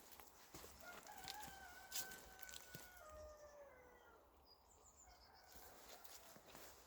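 A rooster crowing once, faint, in one long call of about three seconds that drops in pitch at the end. A small bird chirps briefly afterwards.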